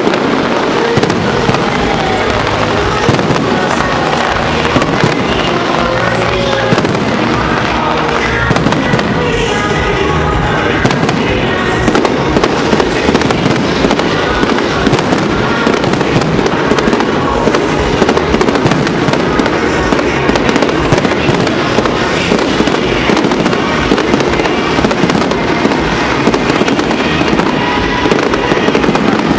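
Fireworks display: a dense, unbroken run of rapid bangs and crackling shell bursts, with music heard underneath.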